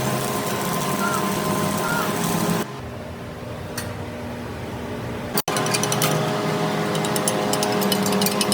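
Workshop power tools and machinery: a steady mechanical hum, then a sudden drop in level about two and a half seconds in, and a fast, dense rattling from about five and a half seconds on.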